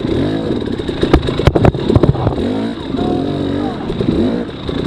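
A 300cc two-stroke dirt bike engine revving up and down again and again as the throttle is worked on the trail. There are two sharp knocks a little over a second in.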